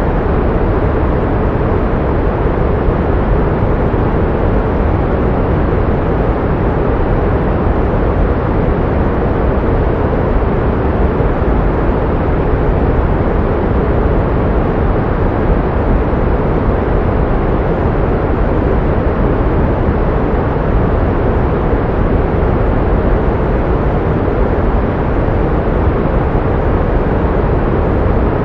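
Pink noise: a steady, even hiss weighted toward the low end, like a soft rushing roar, unchanging throughout. It is used as masking sound for tinnitus and for relaxation.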